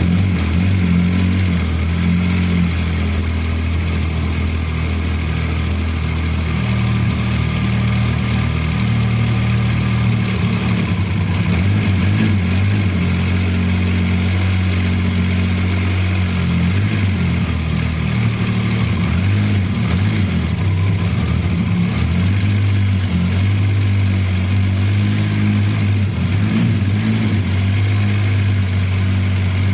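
1981 Yamaha XS750E's three-cylinder four-stroke engine running steadily at idle just after starting, its note wavering slightly now and then. The bike is freshly restored and running again after being a non-runner.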